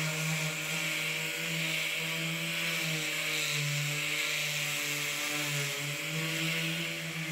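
Handheld power tool running steadily on metal, with a slightly wavering hum and a hissing scrape, as the bumper is stripped of rust and prepared for paint.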